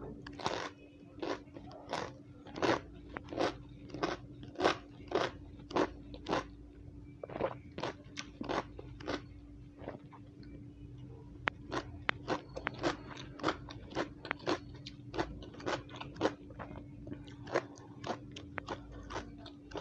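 Close-up crunching of raw bitter gourd (balsam apple) being chewed: regular crisp crunches about one and a half a second, giving way about halfway through to quicker, smaller crackles.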